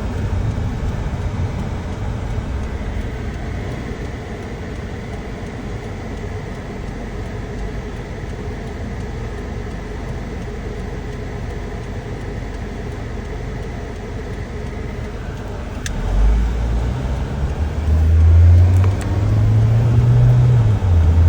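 Road and engine noise inside a moving car: a steady low rumble, then from about sixteen seconds in a louder low drone that rises in pitch in steps.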